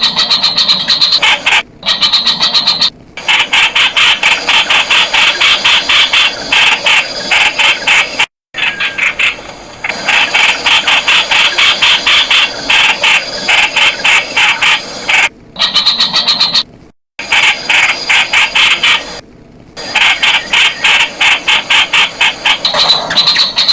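Streak-eared Bulbul calling in loud, fast runs of short, sharp notes, several a second, with a few sudden short breaks.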